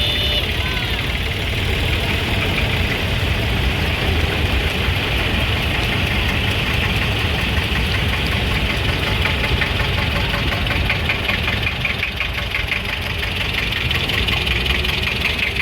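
An engine running steadily at idle with a knocking beat; a quick, even ticking joins in about two-thirds of the way through.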